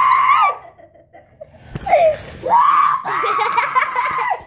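Children laughing hard in high-pitched, shrieking laughter, in two long bouts with a short cry between them.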